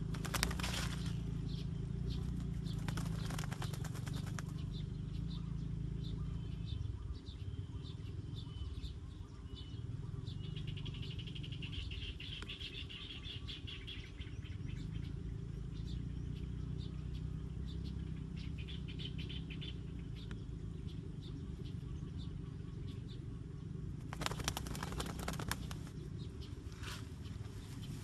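A trapped bird held in the hand flapping its wings in short bursts near the start and again about 25 seconds in, with quick high chirps in between over a steady low hum.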